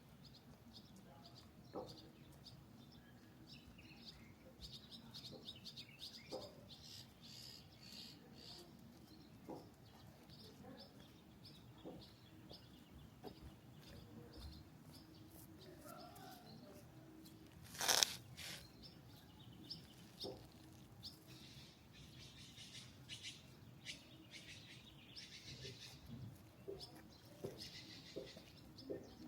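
Small birds chirping faintly in bouts, with scattered light ticks and taps and one sharp tap about eighteen seconds in.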